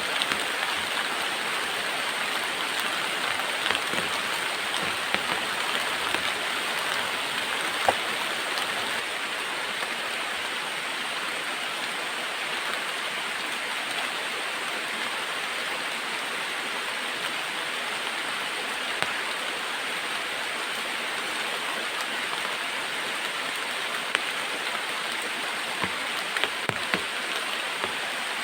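Heavy rain falling as a steady hiss, with scattered sharp taps of heavier drops.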